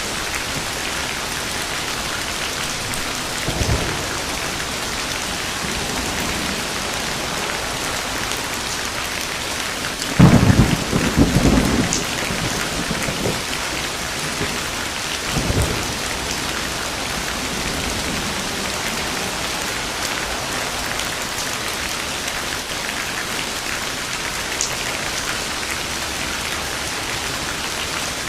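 Steady heavy rain falling, with a loud clap and rumble of thunder about ten seconds in that lasts about two seconds. Fainter thunder comes twice more, a few seconds before and after it.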